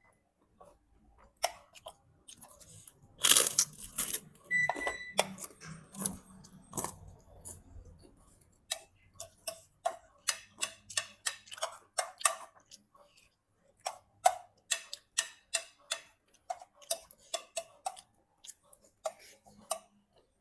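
Kitchen work: a loud clatter about three seconds in, a short beep just after, then a long run of evenly paced knocks, about two or three a second.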